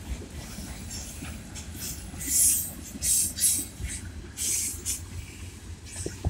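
Freight train tank cars and covered hoppers rolling past with a steady low rumble, and three short high hissing bursts about two, three and four and a half seconds in.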